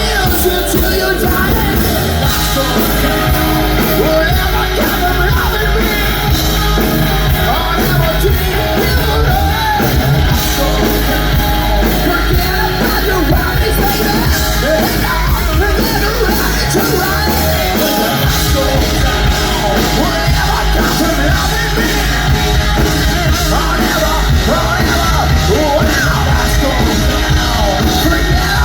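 Hard rock band playing live at high volume, with drums, a heavy low end and a singer's voice.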